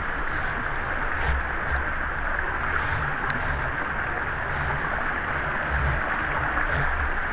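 Waterfall and stream water rushing steadily, with irregular low rumbling underneath.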